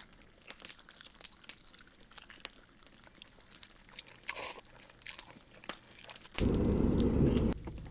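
Crispy air-fried popcorn chicken being bitten and chewed, giving small scattered crunches. Near the end a loud low rushing noise lasts about a second.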